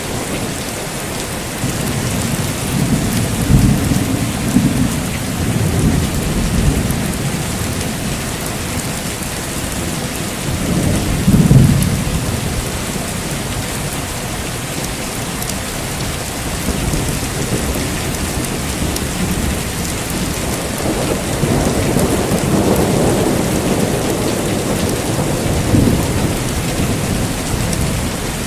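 Heavy rain falling steadily, with rolling thunder rumbling several times: a long rumble a few seconds in, a louder peal near the middle, and another long rumble in the last third.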